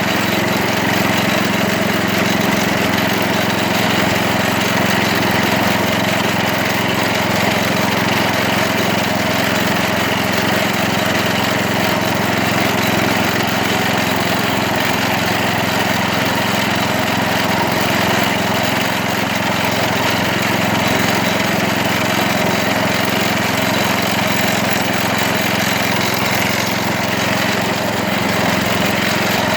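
1970s Wards garden tractor's 16 hp Briggs & Stratton engine running steadily at an even speed.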